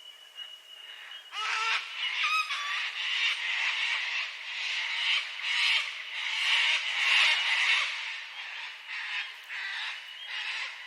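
A flock of sulphur-crested cockatoos screeching back and forth, harsh rasping calls repeated one after another, starting about a second in.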